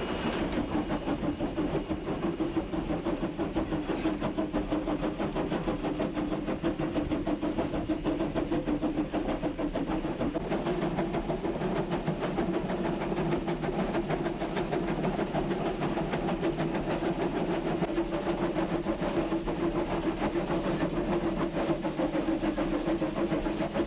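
Steam-hauled passenger train rolling along the track: a steady running rumble of the cars on the rails.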